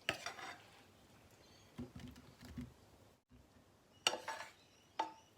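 Kitchen utensils clinking and knocking against dishes: a few sharp clinks with a short ring, one just after the start and two more about a second apart near the end, with softer dull knocks in between.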